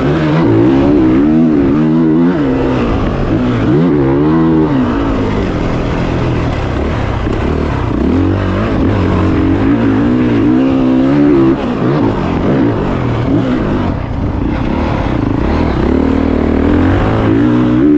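Dirt bike engine running hard, its pitch rising and falling over and over as the throttle is opened and closed.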